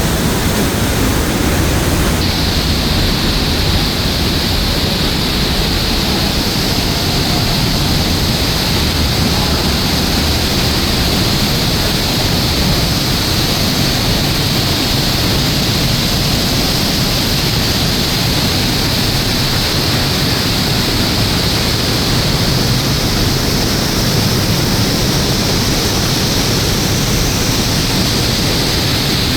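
Waterfall, the Thur falls: a loud, steady rush of falling water that takes on a brighter hiss about two seconds in.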